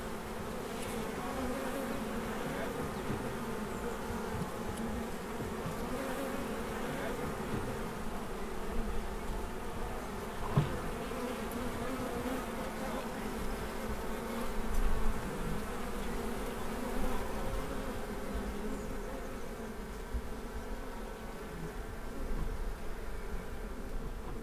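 Steady buzzing hum of a honeybee colony at an opened hive, with one brief click about ten seconds in.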